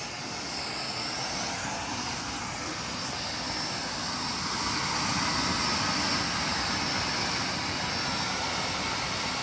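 Small model jet turbine engine on an RC plane running steadily at low throttle just after start-up: an even rushing roar with a constant high-pitched whine on top.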